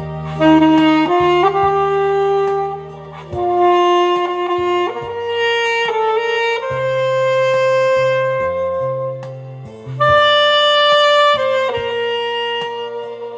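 Alto saxophone playing a slow melody in long held notes, with short breaks between phrases, over a lower accompaniment with a bass line.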